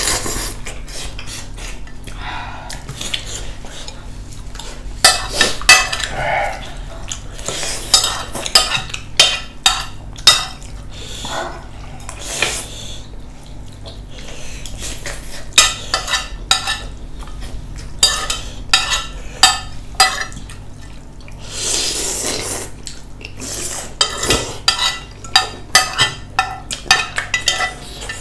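Eating utensils clinking and scraping against bowls and a hotpot during a meal, in quick runs of sharp clicks with a few longer noisy stretches between them.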